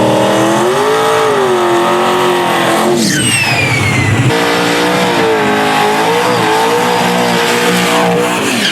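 Drag race car engine held at high revs, its pitch wavering up and down. The sound changes abruptly about three seconds in and again near the end, as between separate runs.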